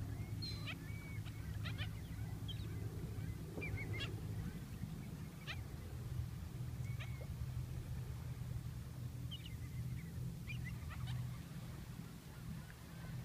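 Birds calling in short, scattered chirps and honks, over a steady low hum.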